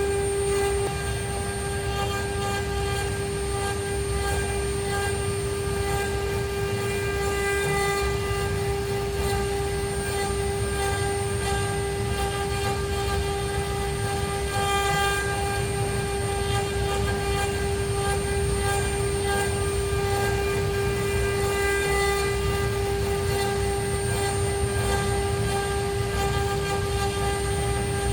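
ART1325 CNC router's spindle running with a steady whine over a low rumble.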